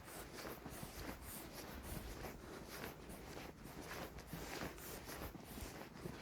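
Faint footsteps crunching through snow at a steady walking pace, about two steps a second.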